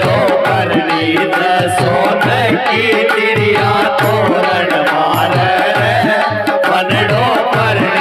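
Indian folk music: a dholak drum beating a steady, repeating rhythm under a wavering organ (keyboard) melody.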